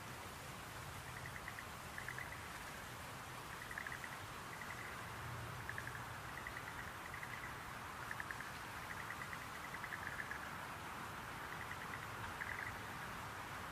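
Schlegel's green tree frogs calling: many short, rapidly pulsed trills, coming every second or so, over a steady hiss.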